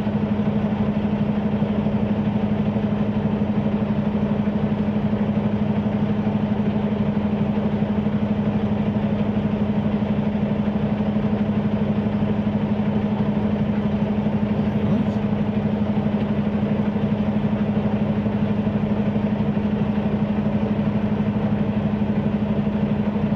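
Semi-truck diesel engine idling steadily, an even hum that holds without change.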